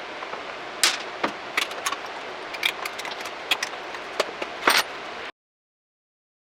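Small metal parts and hand tools clicking and clinking, about a dozen sharp taps over a steady hiss, cutting off suddenly to dead silence about five seconds in.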